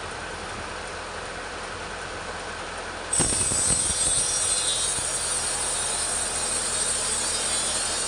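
Petrol chainsaw running steadily while ripping teak lengthwise. About three seconds in it turns abruptly louder, with a strong high whine, and stays at that level.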